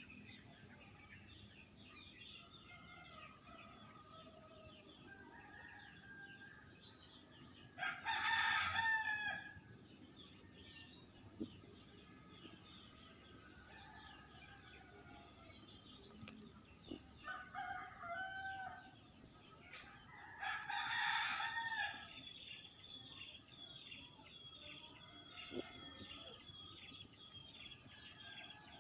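Two loud bird calls, each about a second and a half long, about 8 and 21 seconds in, with a weaker one between them, over a steady high insect drone and faint scattered chirping.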